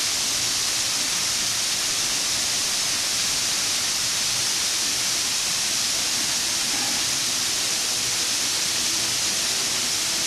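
A 23-metre waterfall rushing in a steady, even roar of falling water.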